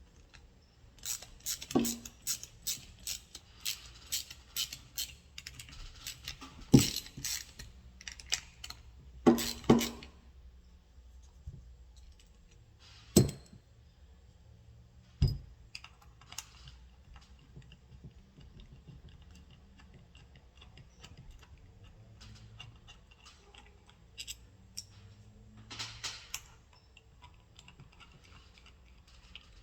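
Small metal parts and tools clicking and clattering as a starter motor is taken apart by hand: a quick run of light clicks through the first ten seconds, a few sharper knocks, then scattered quieter handling clicks.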